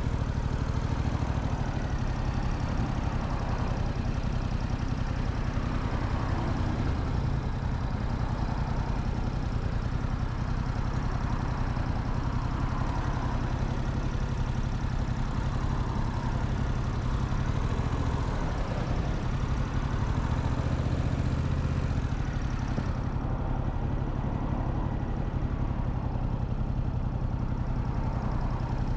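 Motorcycle engine running steadily, heard from the rider's seat with a hiss of wind and road noise over it. Late on, the higher hiss suddenly drops away, leaving mostly the low engine sound.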